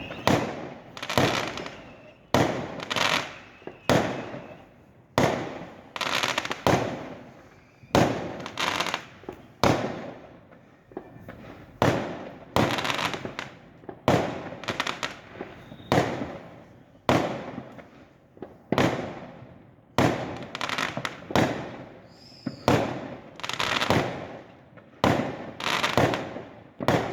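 Fireworks going off in a steady barrage. There is a sharp bang about once a second, and each one fades away before the next.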